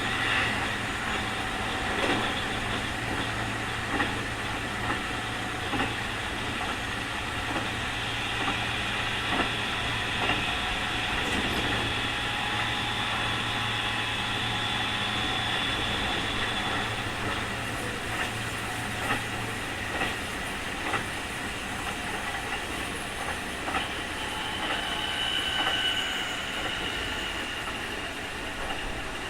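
Keikyu 2000 series field-chopper electric train running at speed, heard from inside the car, its wheels clacking over rail joints about once a second. A high whine rides over the running noise: the 'jet sound', the abnormal noise this car is known for.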